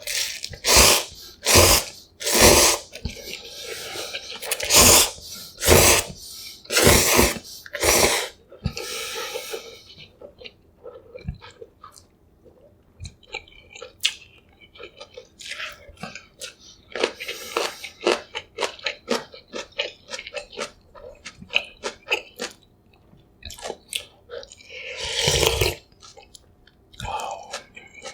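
Close-miked eating sounds of spicy beef cup noodles: a run of loud, short slurps over the first eight seconds, then quieter chewing with small wet clicks, and another loud slurp about 25 seconds in.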